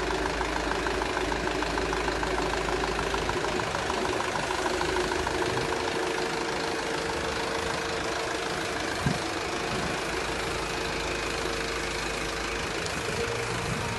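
Truck engine idling steadily, with a single short knock about nine seconds in.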